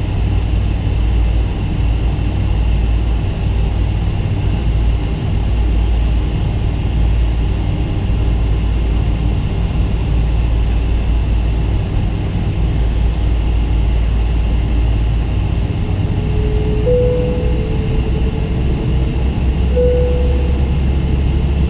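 Boeing 777-200 cabin noise heard from a window seat: a steady, loud low rumble from the engines and airflow as the airliner sits or taxis before takeoff. Near the end a short faint whine sounds twice.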